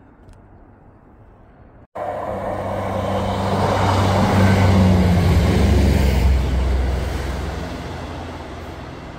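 A diesel train passing on the railway line, its engine drone and wheel rush starting abruptly about two seconds in, growing to its loudest in the middle and fading as it goes away.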